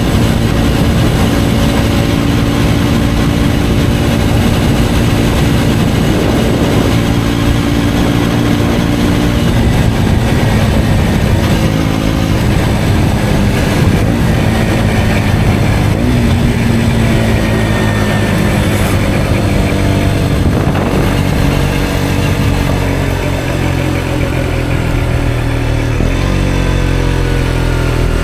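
KTM Duke 125's single-cylinder four-stroke engine running through an Akrapovic exhaust while riding, its note rising and falling with the throttle.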